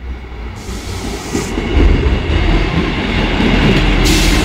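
Class 158 diesel multiple unit passing close by over a level crossing: its low rumble swells over the first two seconds and then holds steady, with wheels clattering over the rails. A short rush of hiss comes near the end.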